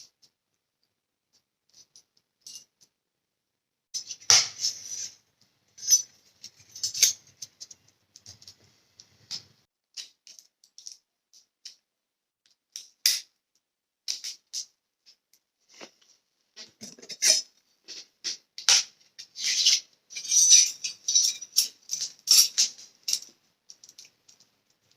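Small steel pieces being handled by hand, clinking, rattling and scraping in irregular bursts, with short pauses between.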